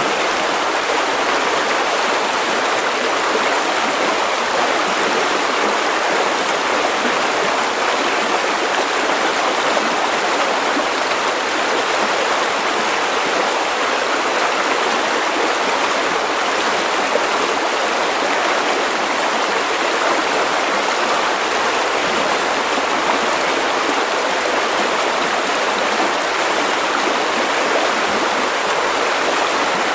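River water running over stones, a steady rushing and babbling.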